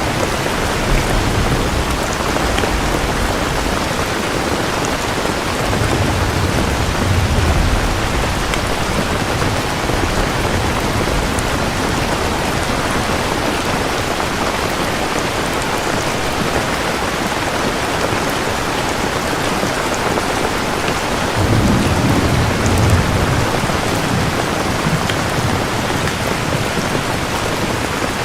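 Steady rain with thunder rolling low twice, once about six seconds in and again a little after twenty seconds.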